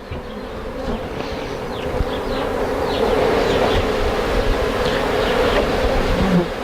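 Honeybees buzzing in a dense swarm close to the microphone, growing louder over the first three seconds and then holding steady, with short whines of single bees flying past.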